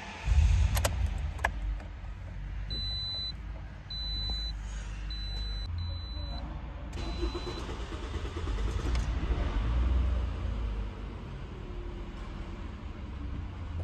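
Toyota RAV4 engine being cranked and started, then idling fast with a steady low rumble: a hard start that the owner puts down to the fuel filter.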